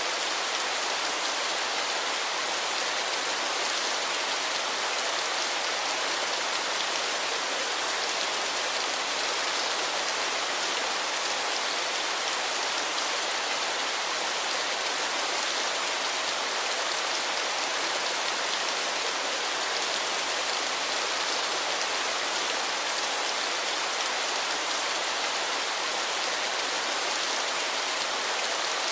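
Waterfall: a steady, even rush of falling and splashing water, mostly hiss with little low rumble.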